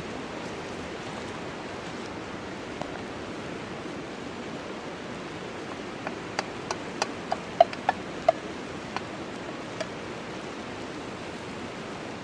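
Steady rushing of a creek's flowing water. About halfway through comes a run of a dozen or so short, sharp clicks and clinks, some with a brief ring.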